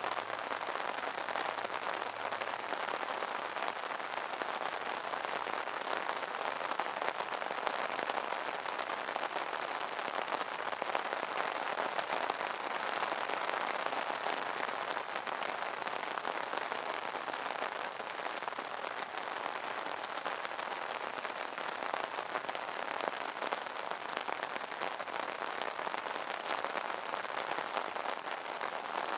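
Steady rain pattering on an umbrella canopy, a dense, even hiss of many small drop impacts.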